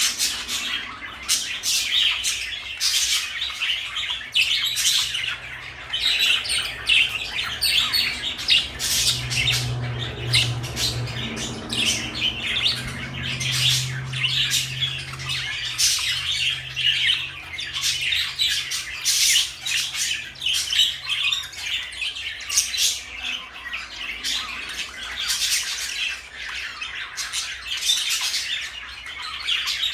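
Pet parakeets (budgerigars) chirping and squawking in a rapid, nonstop stream of short calls.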